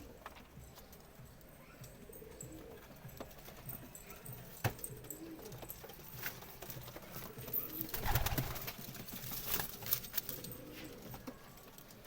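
Domestic pigeons cooing in low, soft murmurs, with scattered sharp clicks. A louder rustling burst with a low thump comes about eight seconds in.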